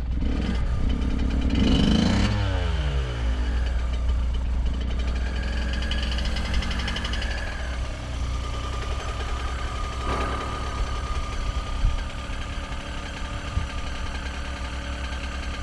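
Motorcycle engine running at idle, revved up once about two seconds in and falling back, with its pitch dropping.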